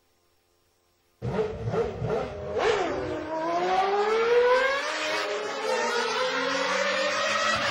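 A car engine cuts in suddenly after a second of near silence and revs, its pitch climbing slowly over several seconds with a few brief dips.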